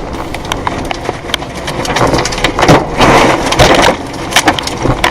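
Strong storm wind rushing, with many sharp cracks and clattering knocks of debris being hurled about, loudest around the middle.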